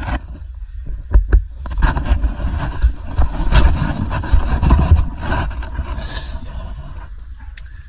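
A handheld action camera being handled and turned around: irregular bumps, knocks and rustling against the microphone over a low rumble, easing off over the last few seconds.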